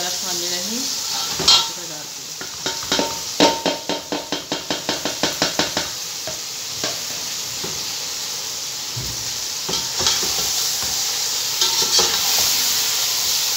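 Marinated chicken going into hot oil with fried onions and tomatoes in an aluminium pot, sizzling steadily. Over the frying, a metal spoon knocks on the pot, with a run of quick taps, about five a second, a few seconds in, and a few more knocks near the end as the chicken is stirred.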